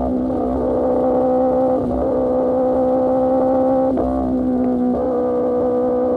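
Sportbike engine through an Austin Racing GP1R exhaust, running at a steady high-pitched note, with short breaks in the note right at the start and again about two and four seconds in.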